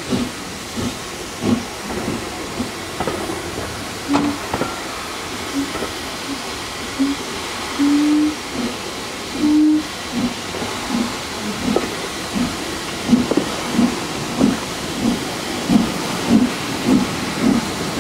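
Steam locomotive 30777 Sir Lamiel, a Southern Railway King Arthur class 4-6-0, working with a steady hiss of steam and a regular exhaust chuff at about two beats a second, the beats growing stronger in the second half.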